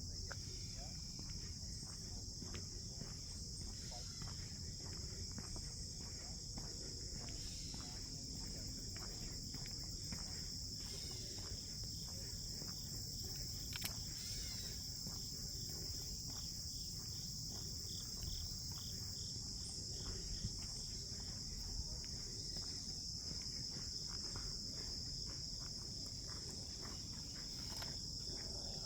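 Steady high-pitched chorus of crickets, unbroken throughout.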